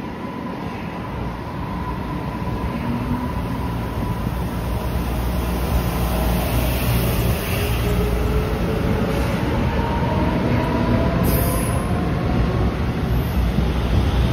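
Train rumble at a station growing steadily louder, with several whining tones that slowly fall in pitch: an electric train slowing as it comes in, with a brief click about eleven seconds in.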